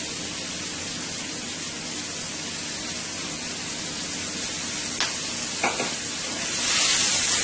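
Sliced red onions sizzling in a hot skillet, a steady hiss, with two short knocks about five seconds in. The sizzle grows louder near the end.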